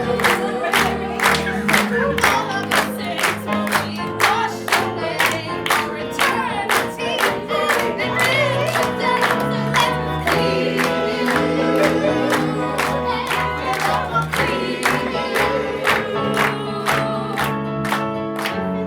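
Live improvised song: several voices singing over a musical accompaniment with a steady beat of about two strokes a second.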